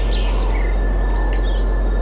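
Steady wind with a deep rumble, and small songbirds chirping over it: a quick falling trill right at the start, then a couple of short calls.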